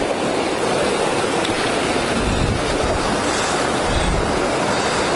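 Fast river water rushing steadily, with wind gusting on the microphone now and then.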